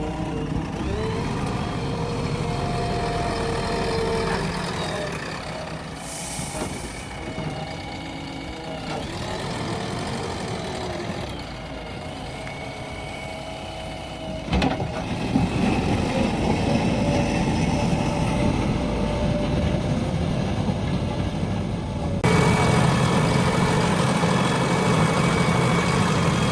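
Diesel engine of a JCB 3DX backhoe loader running while the machine works, quieter for a while, then louder after a sharp knock about halfway through.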